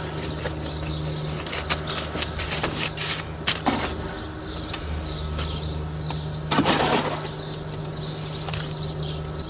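Trowel working watery cement in around a post: a run of short scrapes and knocks, the loudest about two-thirds of the way through, with birds chirping and a steady low hum behind.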